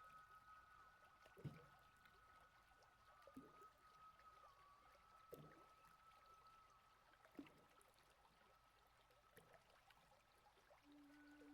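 Faint taonga pūoro soundscape: a held, high, slightly wavering tone, with a soft low falling stroke about every two seconds.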